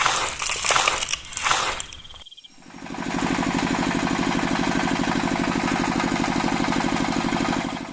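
Irregular crunching and scraping for about two seconds, then, after a brief pause, a small machine starts running steadily with a fast, even pulse.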